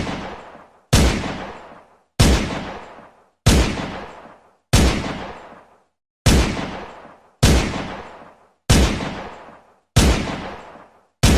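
Gunshot sound effect: single shots, one about every 1.2 to 1.4 seconds, about nine in all. Each is a sharp crack followed by an echoing tail that dies away over about a second.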